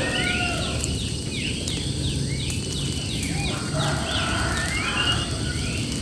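Birds singing: a quick run of short, falling whistled notes, about three a second, then arched whistled calls in the second half, over a steady low rumbling noise.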